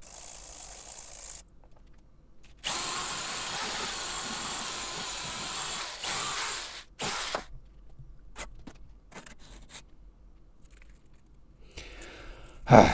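An electric power tool runs steadily for about four seconds, followed by a scattering of light clicks and knocks.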